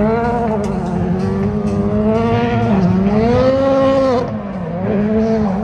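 Car engine revving hard during a drift or donut run, its pitch swinging up and down, climbing to a peak about three to four seconds in and dropping off sharply just after four seconds.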